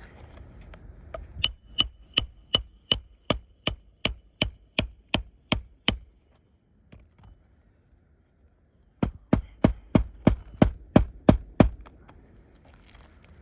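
A hammer driving roofing nails into shingles: a quick run of about a dozen ringing metal strikes, a pause of about three seconds, then a second run of about eight strikes.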